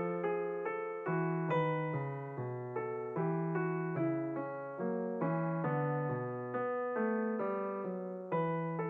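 Piano music: a calm, even stream of single notes, about two a second, each one fading before the next.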